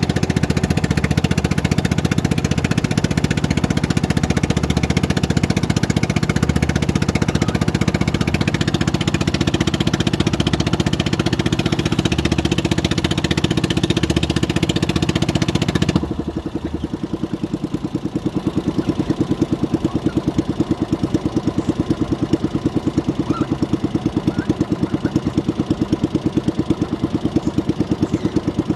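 Motorboat engine running steadily, then dropping abruptly to a quieter, lower, evenly pulsing run about sixteen seconds in.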